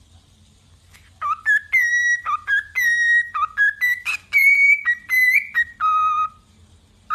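Pet parrot whistling a tune: a quick run of clear whistled notes that slide up and down between each other, starting about a second in, pausing near the end, then starting again.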